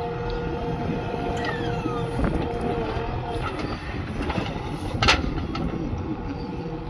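Backhoe loader's diesel engine running steadily under work, with brief metal squeaks and one sharp clank about five seconds in.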